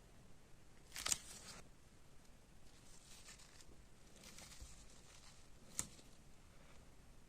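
Faint workshop handling noises: a short scrape about a second in, softer scraping and rustling later, and a sharp click near six seconds.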